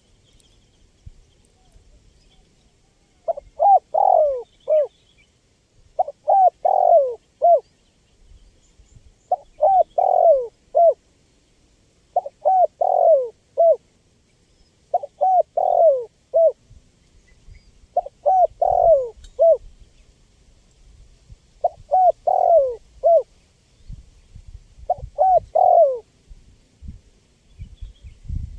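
Spotted dove (tekukur) calling: eight phrases of several short coos each, repeated about once every three seconds, starting a few seconds in.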